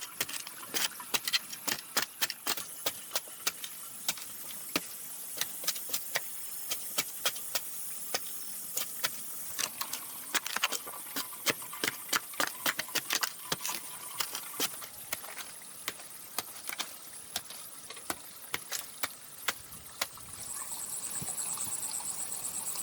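Hand work on bamboo: irregular, sharp taps and knocks, several a second. A steady high hiss comes in near the end.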